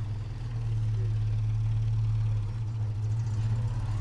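Steady low hum of a running engine at idle, holding an even pitch without revving.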